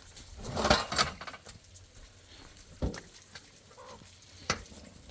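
A livestock animal calls once, briefly, about half a second in. It is followed by two sharp knocks, about three and four and a half seconds in.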